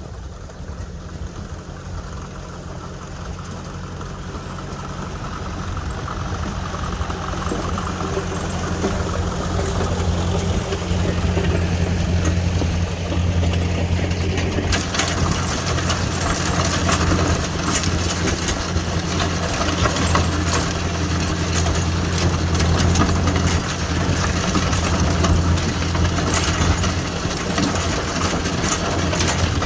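1956 Ford 640 tractor's four-cylinder engine running steadily as it works a rear grading blade along a gravel driveway, growing louder over the first ten seconds or so as it comes nearer. About halfway through, a gritty scraping noise joins in and stays.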